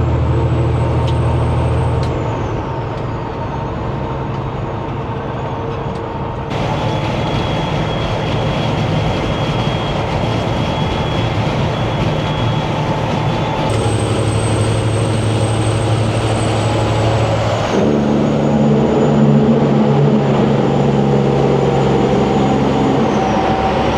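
Semi truck's diesel engine running under way through 8-inch exhaust stacks, with a high turbo whistle that rises and falls. The engine note changes abruptly several times.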